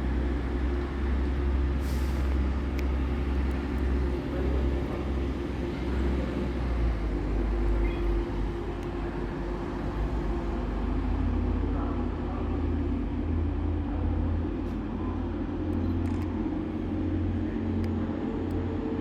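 A train's engine running steadily, a low rumble with a few faint clicks over it.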